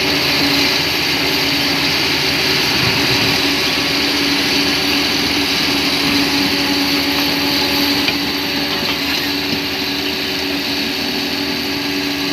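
Bulldozer's diesel engine running steadily under work, with a constant drone and a slight drop in level about two-thirds of the way through.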